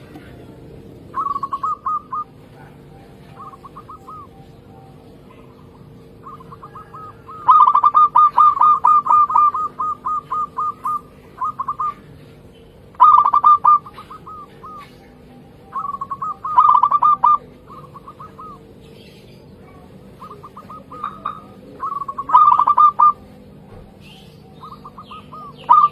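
Zebra dove (perkutut) cooing: bursts of quick staccato notes repeated every few seconds, the longest run lasting about three seconds, over a faint steady hum.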